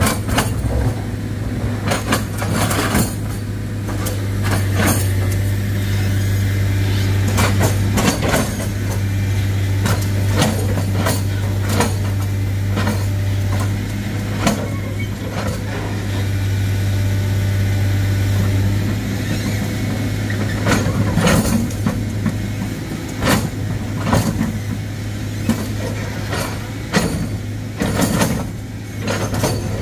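Heavy diesel engine running steadily under load, with frequent sharp knocks and clanks of metal and rock over it.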